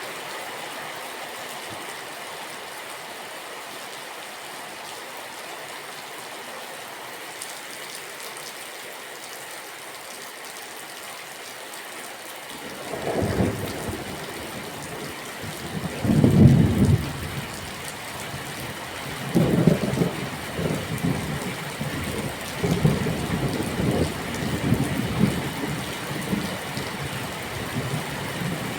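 Steady rain falling, a constant even hiss. About halfway through, thunder rumbles in, a series of deep rolling peals, the loudest a little past the middle, then several more rolls toward the end.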